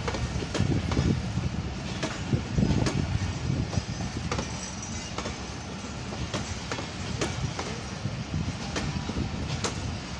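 Passenger coaches of an arriving express train rolling past, a steady low rumble with irregular clicks and knocks from the wheels running over rail joints.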